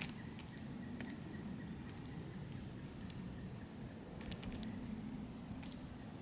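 Small songbirds at a winter feeder: three short, very high, thin call notes about two seconds apart, with scattered faint ticks, over a low steady background rumble.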